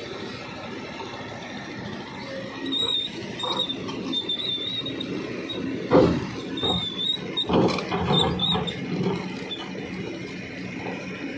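Kobelco excavator working: steady machine noise with an intermittent high, wavering metallic squeal, and two heavy knocks about six and seven and a half seconds in.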